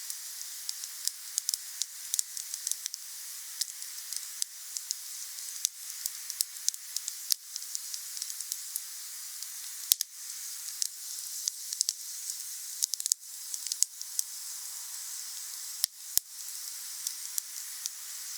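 Wood fire crackling and popping over a steady hiss, with irregular sharp snaps and a few louder pops.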